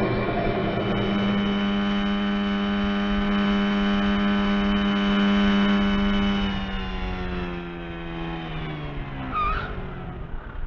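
Honda motorcycle engine running at steady high revs, then falling in pitch in several steps as the revs come down, with a short squeal near the end.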